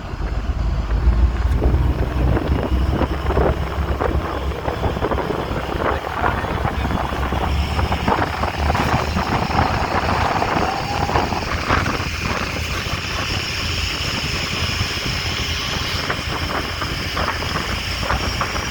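Wind buffeting the microphone over the steady running of a motorboat engine, with crackling gusts throughout; a steady higher whine joins about seven seconds in.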